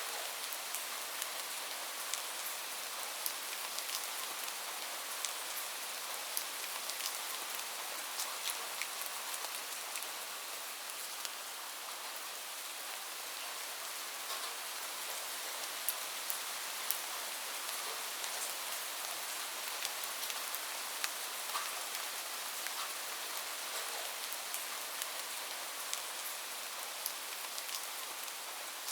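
Steady rain: a dense, even hiss of falling rain with many scattered sharp ticks of single drops striking close by.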